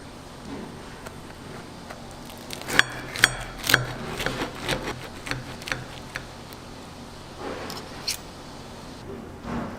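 Handling sounds at a street-food stall: a run of sharp clicks and knocks from about three to six seconds in, with some scraping, over a steady low hum.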